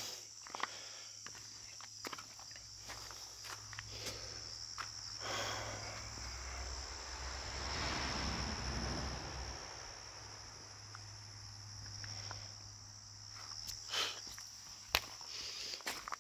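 Steady high-pitched insect chorus, with footsteps crunching through brush and leaf litter in scattered crackles and snaps. Midway through, a broad rushing noise swells up over a few seconds and fades away again.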